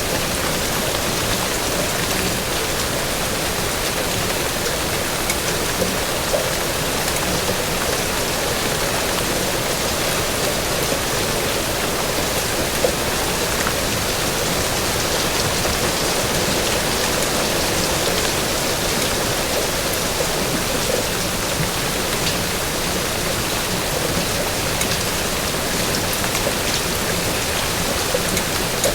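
Steady rainfall, an even hiss of rain with scattered drops ticking on a surface.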